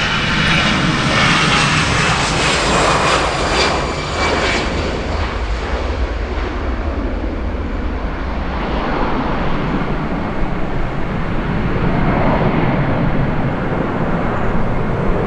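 Jet airliner's engines passing close by: a high whine that dips slightly in pitch rides over a loud rush for the first few seconds, then gives way to a deep, broad rumble.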